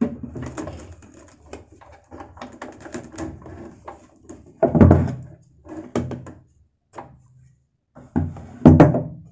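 Clicks, taps and knocks of handling at a sewing machine as the finished buttonhole is taken out, with two louder thumps about five seconds in and near the end.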